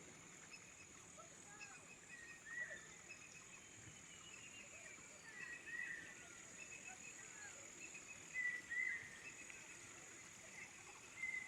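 Faint outdoor countryside ambience: a steady high insect hum with a few short bird chirps, spaced a few seconds apart.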